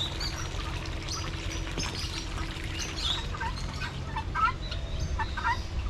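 Small birds chirping in many short, quick calls, busiest in the second half, over a steady low outdoor rumble.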